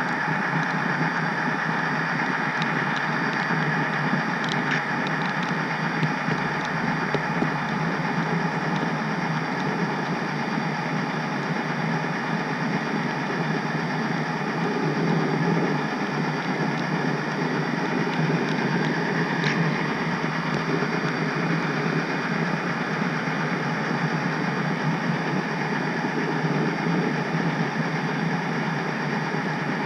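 HO scale model train running along the track, heard from a car in the train: a steady rolling noise with a few faint clicks.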